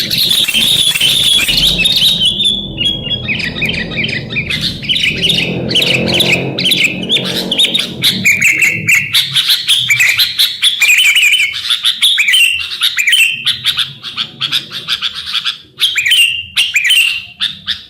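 Sooty-headed bulbuls (kutilang) chirping and calling busily, one short phrase after another, with a low rumble underneath for the first half.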